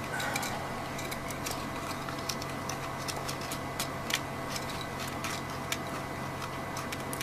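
Small scattered clicks and taps of plastic and metal parts of a model locomotive being handled and fitted together, over a steady low hum.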